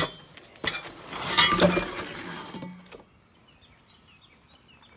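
Packaging rustling and scraping with a light metallic clink as a steel exhaust X-pipe is handled and lifted out of its box, lasting about three seconds and then stopping.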